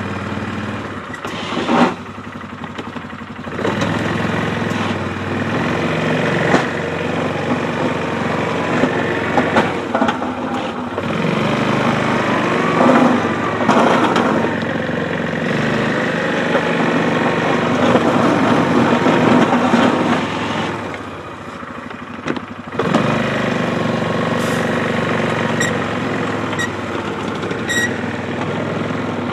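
ATV engine running under load while plowing slush. Its pitch rises and falls as the throttle changes, and it drops off briefly twice: a couple of seconds in and about three quarters of the way through.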